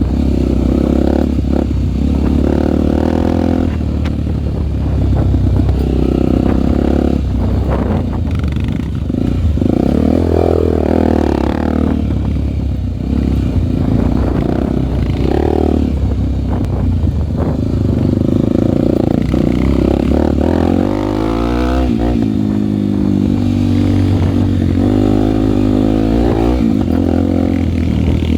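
Single-cylinder four-stroke Honda trail motorcycle engine running under load, its pitch rising and falling again and again as the throttle is opened and closed, with a rising rev around two-thirds of the way in.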